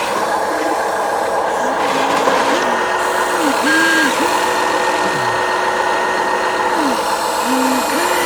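Radio-controlled toy construction vehicles running, their electric drive motors and gears whirring under a simulated diesel engine sound from the toy's speaker that revs up, holds and drops back several times. A short reversing beep sounds once a little past the middle.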